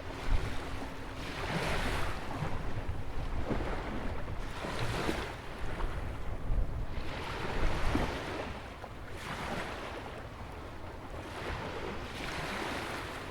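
Ocean waves breaking and washing in near a jetty, a surge every few seconds, with a low wind rumble on the microphone.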